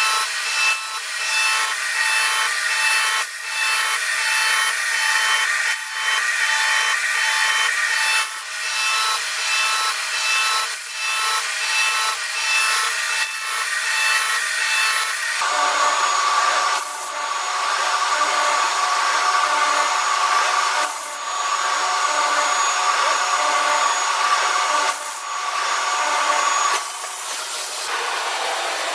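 Machine tool cutting metal, a steady high whine with scraping and occasional clicks; the pitch pattern changes abruptly about halfway through.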